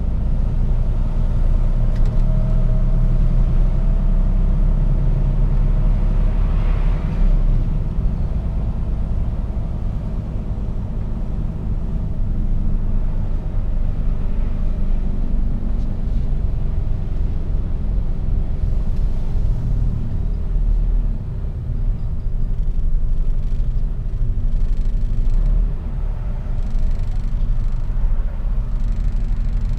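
Mercedes-Benz Actros truck driving, heard from the dashcam: a steady low rumble of engine and road, with a short hiss about seven seconds in.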